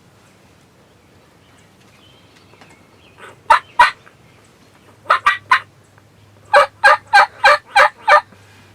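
Turkey yelps in three loud series: two notes, then three, then a run of six evenly spaced notes about a third of a second apart.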